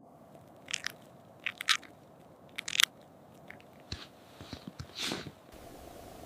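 A handful of short, crisp crunches at irregular intervals, over a steady low hiss.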